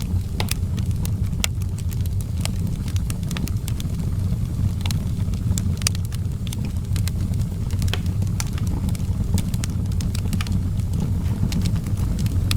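Fire in an outdoor fireplace crackling, with frequent sharp, irregular pops over a steady low rumble.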